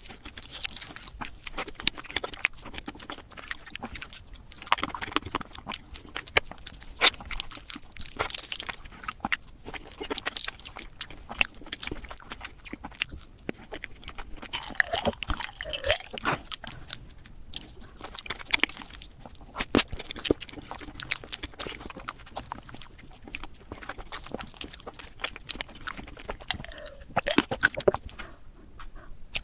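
Close-miked eating sounds of desserts played back at about five times speed: a dense, rapid run of crunching, chewing and mouth clicks, with a couple of short squeaky pitch glides.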